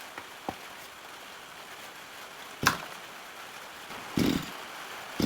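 Quiet background with a faint click, then a sharp knock about two and a half seconds in and a heavier thump near the end.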